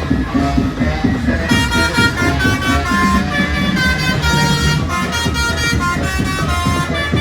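Truck's musical air horns playing a tune of short stepping notes, starting about a second and a half in, over the low rumble of an idling truck engine.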